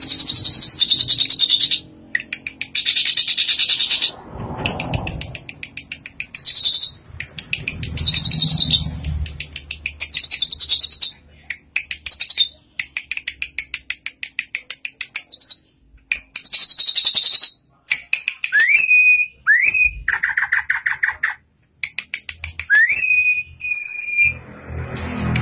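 Drongo (srigunting) singing vigorously: repeated bursts of rapid, chattering trills with short pauses between them, then near the end a few quick rising whistled notes.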